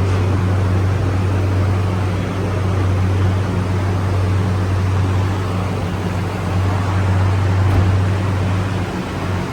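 Engine running steadily with a constant low hum.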